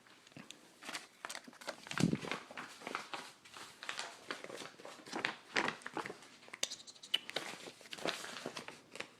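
Irregular rustling and crinkling of something being handled close to the microphone, in a series of short uneven crackles.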